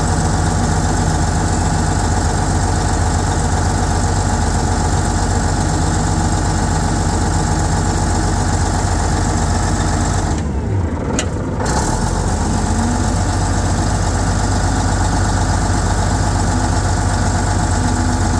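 Large crawler dozer's diesel engine running steadily, with a brief drop in level about ten seconds in before it carries on as before.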